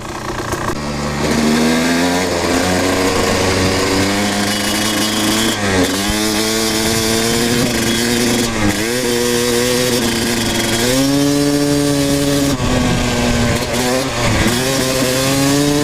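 Kawasaki KX250 two-stroke dirt bike engine being ridden. It climbs in pitch under throttle, drops back several times and climbs again.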